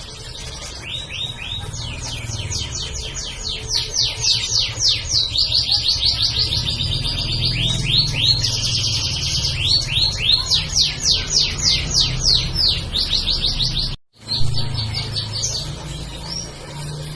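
Domestic canary singing a long, continuous song of fast trills and series of quickly repeated notes, with a brief break about fourteen seconds in.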